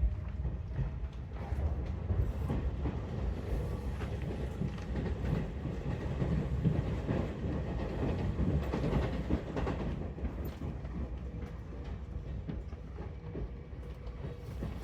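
Seibu 4000 series electric train running on the line, heard from inside the car: a steady low rumble with wheels clicking over rail joints.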